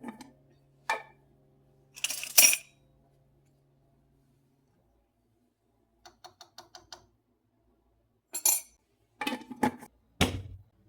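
Kitchen dishes and utensils being handled and set down: separate clinks and knocks, a quick run of light ticks partway through, and several louder knocks near the end.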